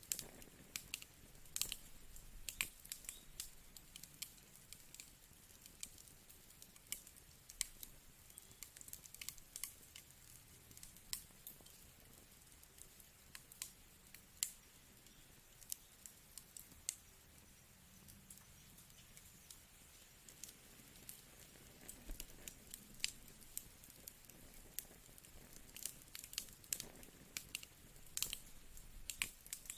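Wood fire crackling: irregular sharp pops and snaps over a faint low hiss, thicker near the start and again near the end.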